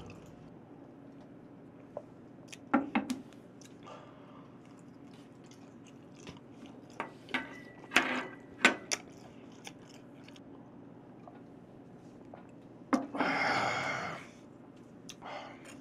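A man chewing a mouthful of raw beef, with scattered wet clicks and smacks from the mouth. A louder rustling noise lasting about a second comes near the end.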